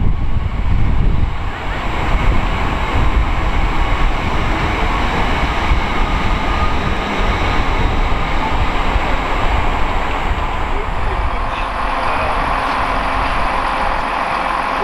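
GWR Class 800 Intercity Express Train moving out of the station with a steady rumble of running gear and traction noise.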